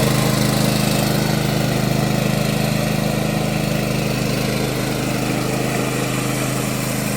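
Hand tractor's engine running steadily, easing off slightly in loudness toward the end.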